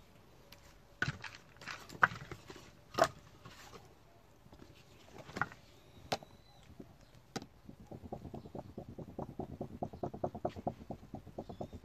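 Firewood knocking as it is handled, several separate knocks, then from about eight seconds in a wood fire crackling with a fast, dense run of clicks.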